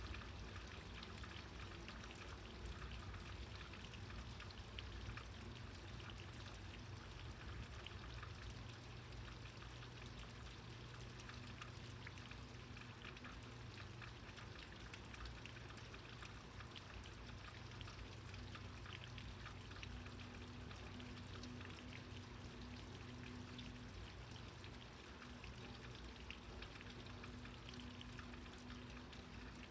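Heavy rain pouring down, with many small drops pattering, over a steady low rumble.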